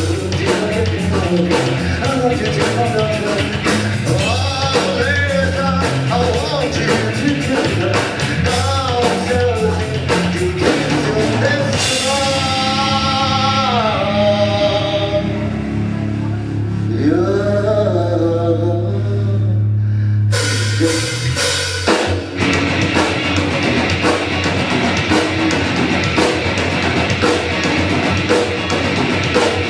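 Live heavy rock band playing loud, with drums, distorted guitars and singing. About twelve seconds in the drums drop out, leaving a held bass note under a gliding vocal or guitar line. The full band crashes back in around eight seconds later.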